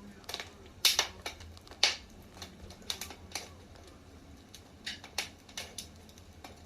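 Firewood burning in a fireplace, crackling with irregular sharp pops. The loudest pops come about one and two seconds in.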